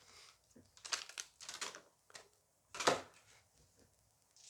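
Short bursts of crinkling and clicking as a Dice Masters booster pack, its cards and dice are handled, the loudest a sharp clack about three seconds in.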